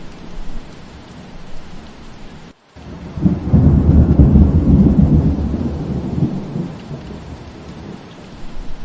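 Steady rain with a roll of thunder: a deep rumble swells about three seconds in, is loudest a second or two later, then dies away back into the rain. Just before the thunder the sound drops out for a split second.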